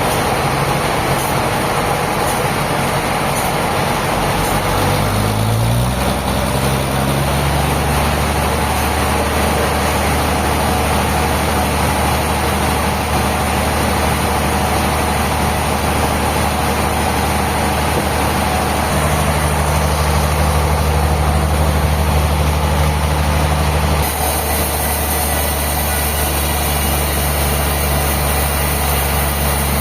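Heavy engine running steadily. It picks up speed about five to six seconds in, then holds, with its note shifting again around twenty and twenty-four seconds in.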